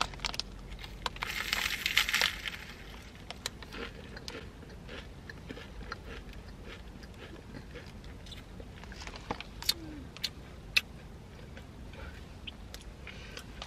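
A bite into a crisp, flaky layered pastry: a dense crackling crunch about a second in, followed by scattered small crunches as it is chewed.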